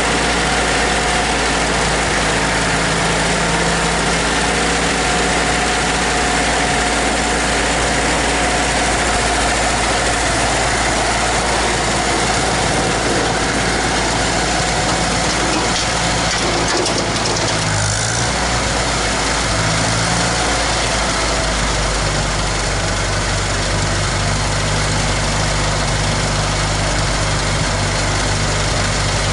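International 2444 tractor's spark-ignition engine running steadily after a cleaned carburetor and new ignition points. Its note shifts about eighteen to twenty seconds in, then settles at a slightly different steady speed.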